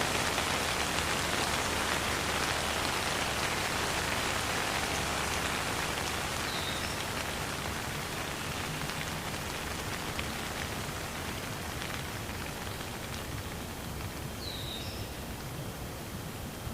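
Steady rain falling, a dense even hiss of drops with no thunder, easing slightly in loudness. A faint high chirp sounds twice, about 7 and 15 seconds in.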